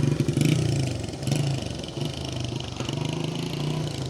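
A motorcycle engine running, its low drone swelling and easing as it revs and idles.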